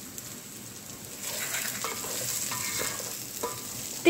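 A wooden spoon stirring chopped vegetables and peanuts frying in an aluminium pot, with sizzling. The stirring starts about a second in and is louder, with a few short scrapes against the pot.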